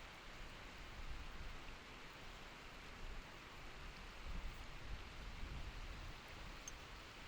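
Steady, fairly faint rushing of a mountain stream flowing over its rocky bed, with an uneven low rumble underneath.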